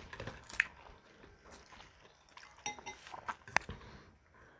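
Close-up eating sounds of a mukbang: chewing and biting with moist, crunchy clicks, and a few sharp clinks of a utensil or dish, the sharpest about three and a half seconds in.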